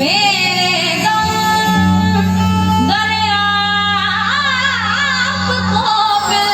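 A woman singing a wordless devotional bhajan opening, long held notes that waver and slide up and down, over a steady low instrumental drone.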